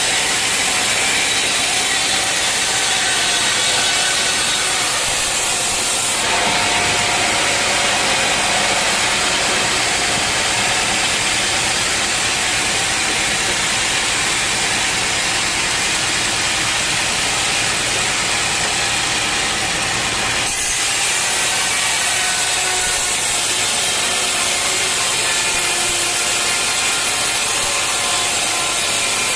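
Sawmill saw blade cutting through an old, dense-fibred teak log: a loud, continuous sawing noise whose tone shifts about six seconds in and again about two-thirds of the way through.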